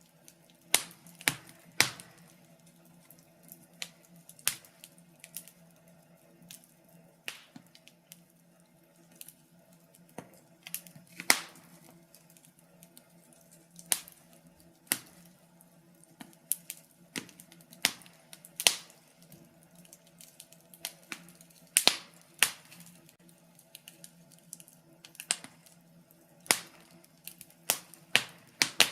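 Wood fire crackling: irregular sharp pops and snaps from burning logs, some much louder than others, over a faint steady low hum.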